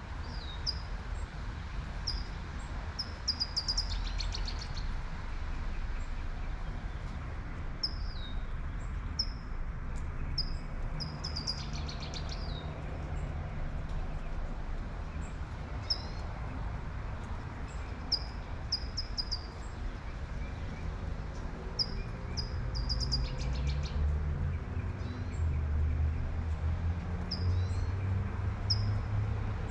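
A songbird repeating short, high chirps every second or two, with a brief rapid trill three times, over the steady hiss of light rain. A vehicle's low rumble rises near the end.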